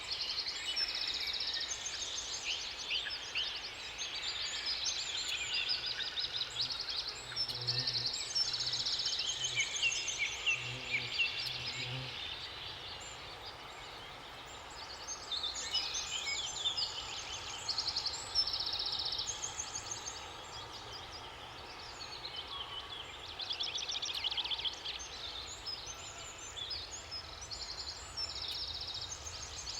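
A chorus of several songbirds singing and trilling over one another. A low repeated call sounds about a handful of times over a few seconds near the middle.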